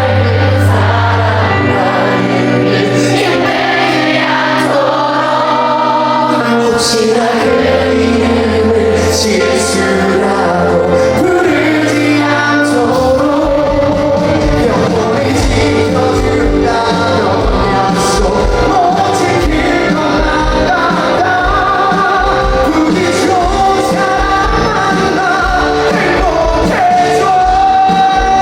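Live rock band playing loudly, with a male lead vocal over it, heard through concert-hall sound. About halfway through, a steady kick-drum beat comes in under the band.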